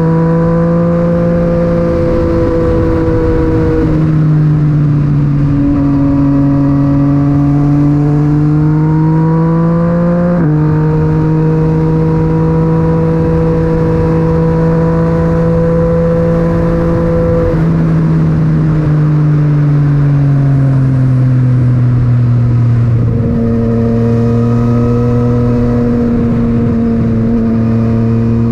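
Yamaha MT-09's three-cylinder engine through an Akrapovic titanium exhaust, pulling under way with a steady rush of wind. The engine note climbs and drops sharply on gear changes about four and ten seconds in, then sinks slowly as the bike slows before settling low near the end.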